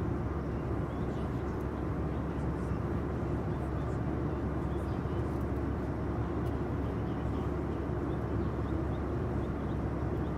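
Steady low rumbling background noise with a few faint ticks, like an outdoor recording with traffic or wind.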